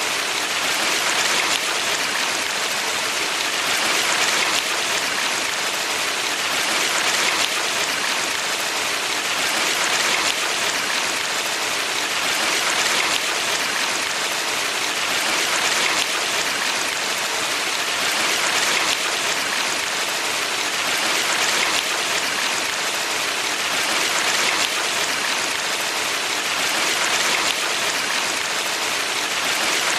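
A valley stream's water rushing steadily, swelling gently every few seconds.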